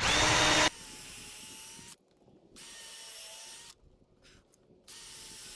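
Power drill driving screws into 2x4 lumber. A short loud burst at the start is followed by three stretches of about a second each of a quieter, steady motor whine, with brief pauses between them.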